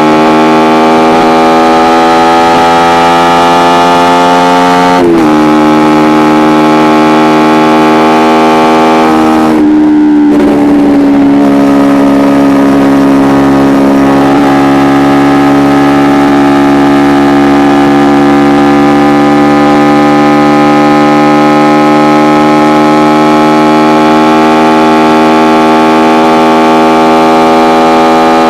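Kawasaki Ninja 250R's parallel-twin engine through an Akrapovic exhaust, recorded onboard while riding: revs climb under throttle, drop sharply at an upshift about five seconds in, dip briefly near ten seconds, then rise slowly and steadily.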